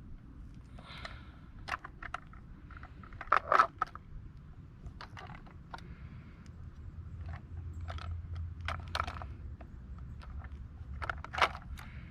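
Irregular clicks, taps and scrapes of a model garbage truck being handled, with louder clusters of clicks about a third of the way in and near the end.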